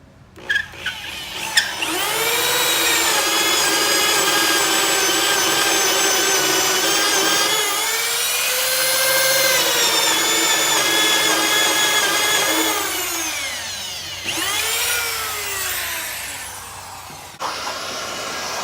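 Electric hand drill boring a hole into a rosewood slab. The motor blips a few times, spins up and runs with its speed sagging and recovering under load. It winds down, spins up briefly once more, and winds down again.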